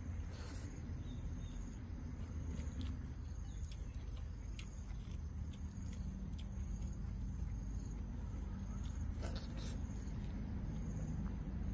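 Eating by hand: scattered small clicks and smacks of a mouth chewing frog meat and rice, with two sharper clicks near the end. Under them run a steady low rumble and a faint, high insect trill.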